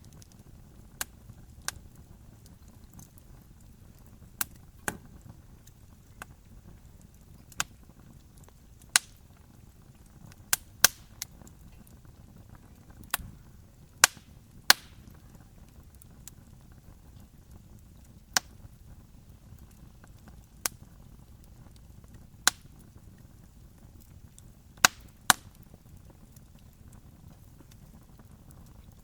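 Wood campfire crackling: sharp irregular pops and snaps a second or two apart, some in quick pairs, over a low steady hiss of the burning fire.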